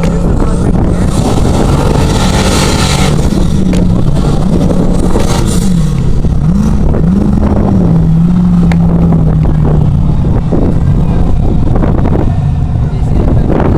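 Off-road 4x4 truck engine revving hard, its pitch climbing and dropping several times, with a rush of hissing noise about one to three seconds in.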